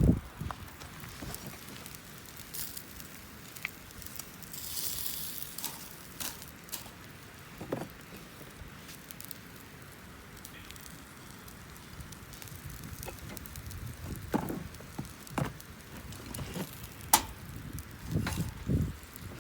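Wood fire crackling, with a steady hiss and scattered sharp pops, one louder pop about seventeen seconds in. A brief burst of hissing comes about five seconds in, and a few dull knocks come near the end.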